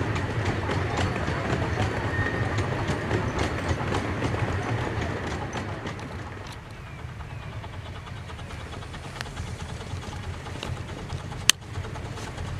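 A 15-inch gauge live steam train rolling past, its wheels clicking over the rail joints, dying away after about six seconds. One sharp click near the end.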